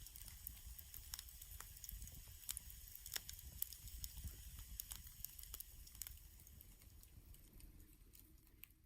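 Wood campfire crackling faintly, with scattered sharp pops, fading out near the end.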